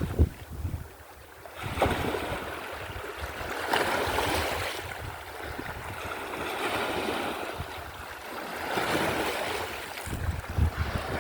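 Sea waves washing ashore, the surf swelling and fading every two to three seconds. Gusts of wind rumble on the microphone near the start and again near the end.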